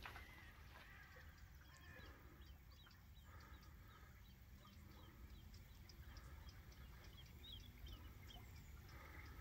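Near silence with faint birds chirping and calling: many short, high chirps.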